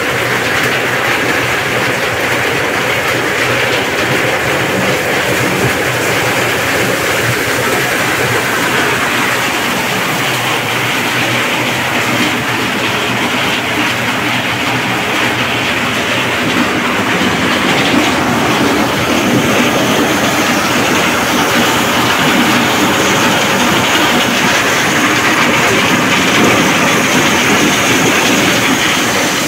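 Motorised corn sheller running steadily, a continuous loud rattling clatter as corn cobs are threshed into loose kernels, over a steady low hum. It gets slightly louder about two-thirds of the way in.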